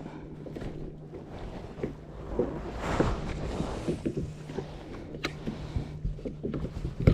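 Fishing-boat sounds: a steady low hum under scattered knocks and handling noises, with a louder rushing noise about three seconds in and a sharp knock near the end.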